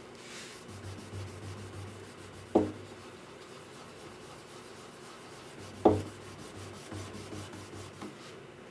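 Fast, even rubbing strokes on the wood of a guitar under repair, with two sharp knocks about two and a half and six seconds in.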